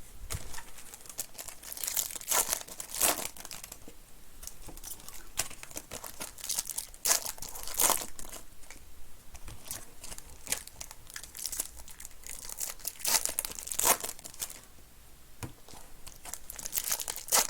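Trading card pack wrappers being torn open and crinkled by hand, in irregular bursts of rustling and tearing.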